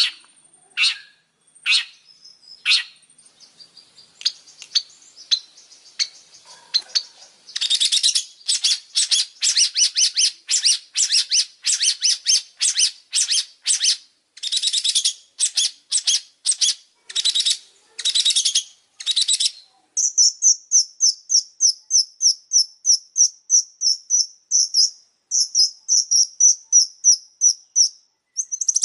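Long-tailed shrike (pentet) singing. It opens with a few harsh, scratchy calls, then breaks into a long run of fast, dense chattering, and from about twenty seconds in switches to a quick series of high repeated notes, about five a second.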